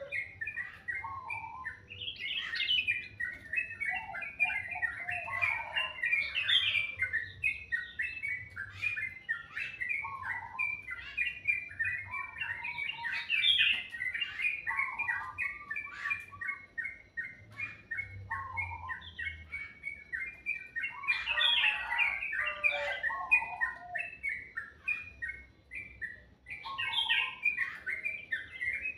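Songbirds singing in a continuous, dense stream of quick chirps and trills, with occasional lower whistled phrases mixed in.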